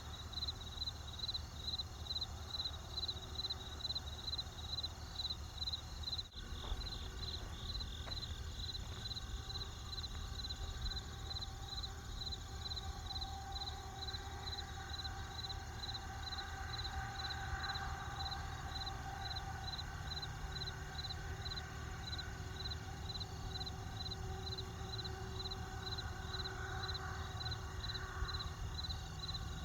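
Crickets chirping in a steady, even rhythm of about two high chirps a second, over a low steady rumble. The sound drops out for an instant about six seconds in.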